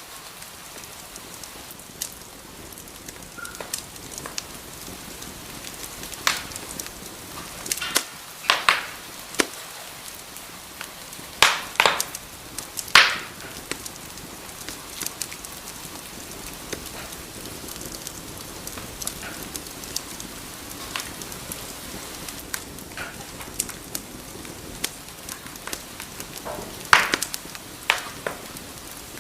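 Wood fire burning in a fireplace: a steady soft hiss with irregular crackles and pops, the loudest pops coming in clusters around a third of the way in and again near the end.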